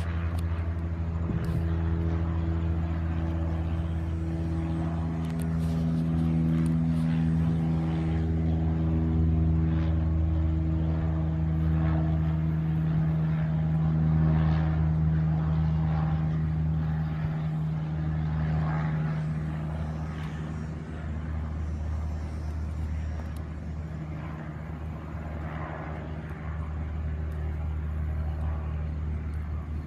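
Propeller plane towing a banner, its piston engine droning steadily as it passes overhead. The sound grows louder to a peak about halfway through, then eases off.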